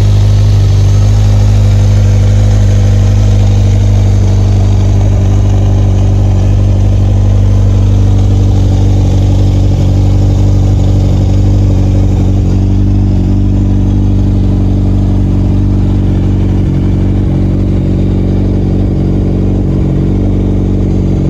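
Kawasaki Z1000's inline-four engine idling steadily through an Akrapovič carbon slip-on silencer, the pitch holding even without any revving.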